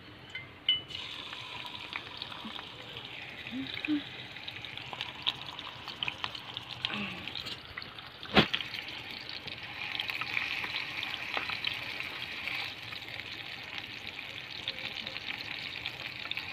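Chopped shallots and tomato sizzling in hot oil in a frying pan. The sizzle starts about a second in and gets louder about ten seconds in, with a metal spoon stirring and one sharp knock about eight seconds in.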